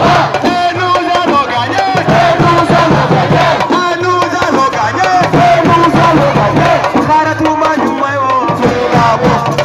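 A crowd of supporters singing and chanting together over steady, rhythmic drumming.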